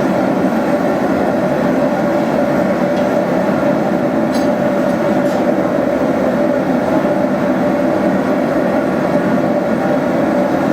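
Forge running steadily while the steel heats: a loud, even rushing noise with no hammer strikes.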